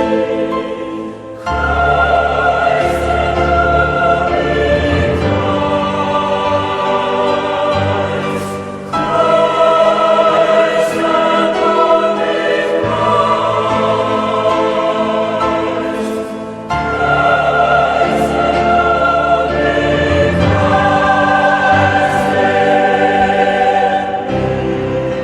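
Choral music: a choir singing long held chords over instrumental accompaniment with a steady bass, the chords changing every few seconds and marked by sharp bright accents.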